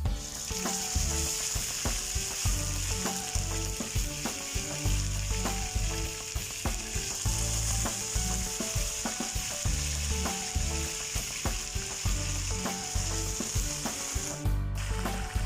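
Marinated fish frying in hot oil in a pan, a steady sizzle that cuts off abruptly near the end.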